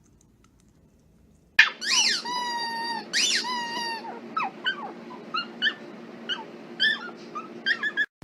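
A dog whining in high-pitched cries: two longer calls that drop in pitch and then hold, followed by a string of short squeaky whimpers.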